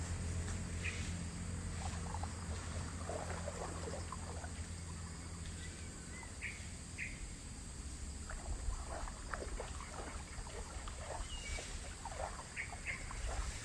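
Outdoor ambience: a low engine hum that fades away over the first few seconds, a steady high insect drone, and a few short bird chirps, with light irregular rustling.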